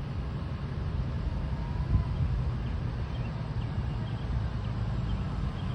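Low, steady rumble of a fire rescue truck's engine and road noise as it drives, with a brief thump about two seconds in.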